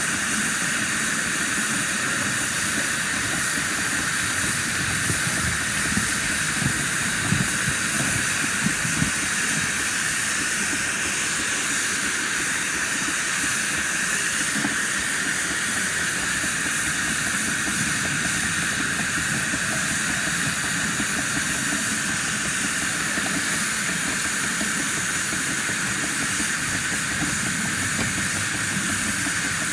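Steady hiss of steam from a 7¼-inch gauge live-steam model of a D&RGW Baldwin C19 locomotive while it runs, with a few short clicks about six to nine seconds in.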